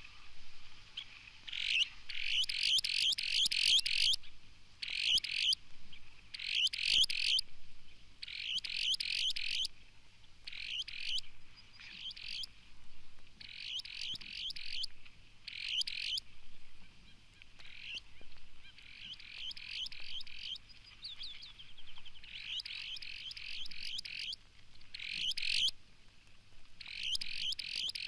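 Broad-billed sandpiper singing: a series of short, buzzy trills, each a quick run of notes, repeated every one to two seconds.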